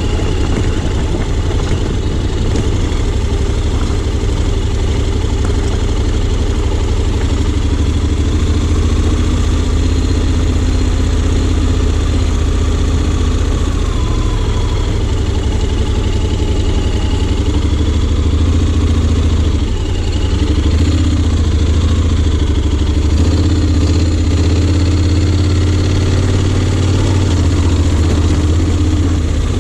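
Honda X-ADV 750's parallel-twin engine running steadily, its pitch shifting slightly now and then.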